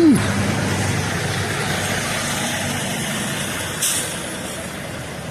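Steady street noise of a heavy vehicle's engine and traffic, with a short hiss of air about four seconds in.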